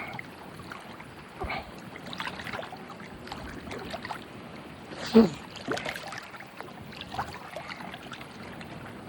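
Faint, scattered distant voices over steady outdoor background noise, with one short, louder voice sound about five seconds in.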